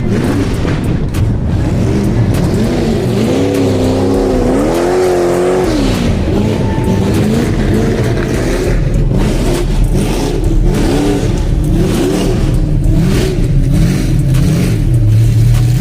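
Car engine revving, its pitch rising and falling several times, most strongly a few seconds in, over a steady engine rumble.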